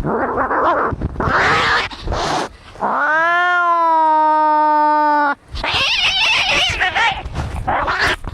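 Cats fighting: harsh hissing and spitting, then one long drawn-out yowl, rising and then held steady for over two seconds, about three seconds in, followed by more hissing.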